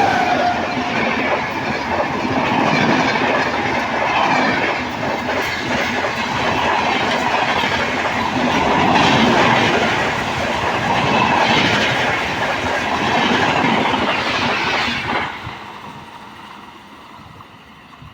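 Indian Railways train running past with wheels clattering over rail joints, a loud, dense rumble that dies away from about fifteen seconds in as it clears.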